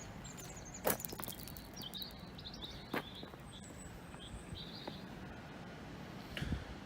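Birds chirping faintly in short high calls over a quiet open-air background, with two sharp clicks, about a second and three seconds in.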